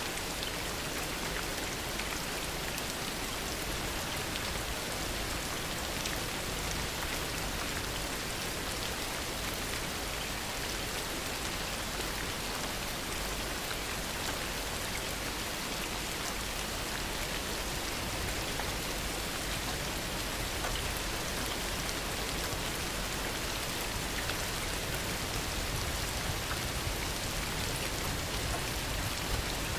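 Heavy rain falling steadily, a constant even hiss of drops.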